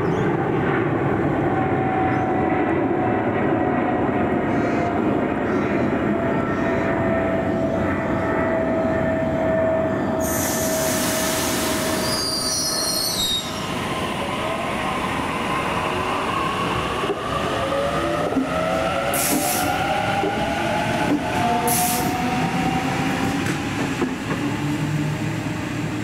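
Electric suburban train at a station platform: a whine falling in pitch as it slows, a sharp hiss of air about ten seconds in, then several whines rising in pitch as a train pulls away.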